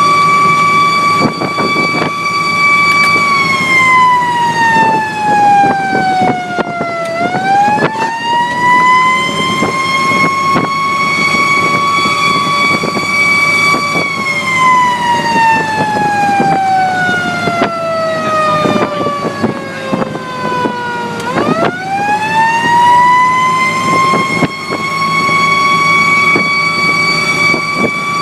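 Fire engine siren sounding on a response: a steady high wail that twice drops slowly in pitch over several seconds and then quickly climbs back up, with the truck's engine running underneath.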